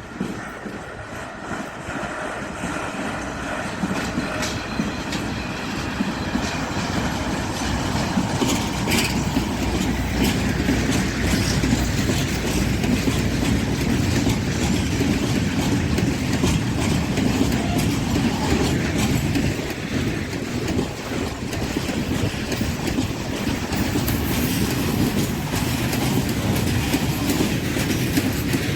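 Freight train passing, its wagons' wheels clattering over the rails. The sound builds over the first few seconds and then stays loud and steady.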